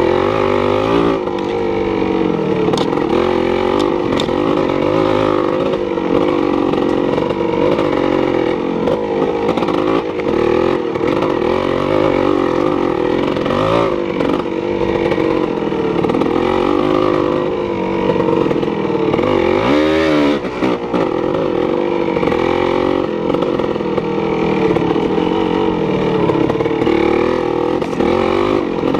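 An engine running without a break, its pitch drifting up and down as the speed changes, with a brief sweep about twenty seconds in.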